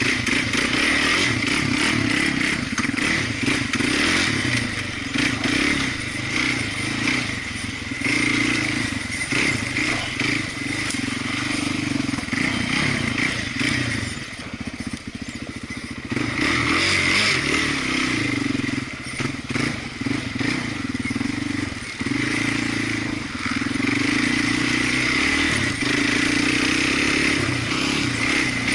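Off-road vehicle engine running under changing throttle. It eases off about halfway through, then picks up again, with short knocks and rattles over the top.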